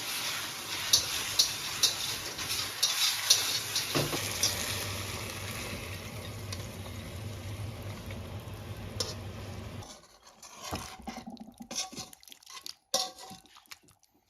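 Stir-frying in a wok: a steady sizzle with the spatula clicking and scraping against the pan about two to three times a second over the first few seconds. The sizzle goes on more quietly and stops about ten seconds in, leaving only a few scattered knocks.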